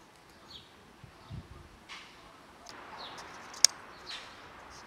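A small bird chirping a few times in short falling notes, with one sharp click about three and a half seconds in, the loudest sound.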